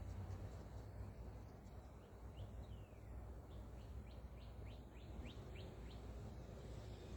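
A bird calling in the background: a run of about a dozen short chirps, one longer falling note among the first few, starting about two seconds in and stopping about six seconds in. A low rumble runs underneath.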